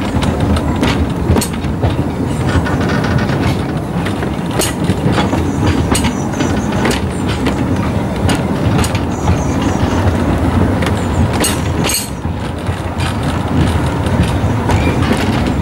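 Narrow-gauge train running along the track, heard from aboard: a steady rumble with irregular clicks and knocks of the wheels over rail joints and points.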